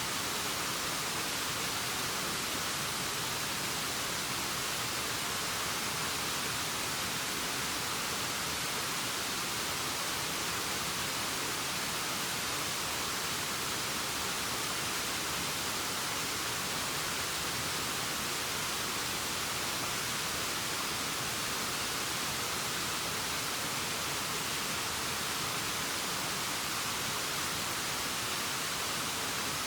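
Waterfall sound: a steady, unbroken rush of falling water, an even hiss weighted toward the high end.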